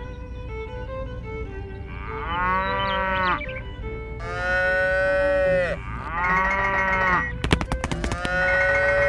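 Cow mooing: four long moos a second or so apart, each with a bending pitch, over background music. A quick run of sharp clicks comes between the third and fourth moo.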